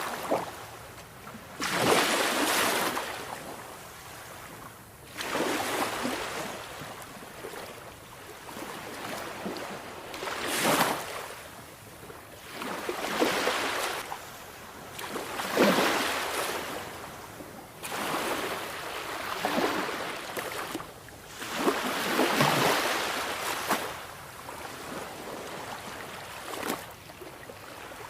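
Sea waves washing onto a shore, one surge of surf every two to three seconds, each swelling and then falling away.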